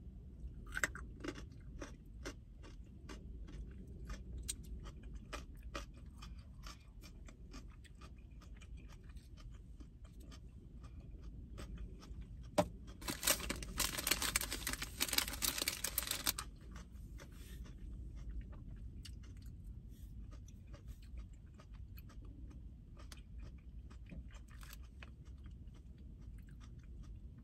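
Close chewing of crunchy raw carrot sticks, with many small sharp crunches. About 13 seconds in, a plastic bag crinkles for around three seconds.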